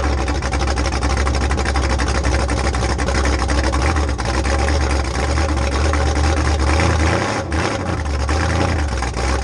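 Figure 8 race car engine running loud and steady, with a short dip about seven and a half seconds in.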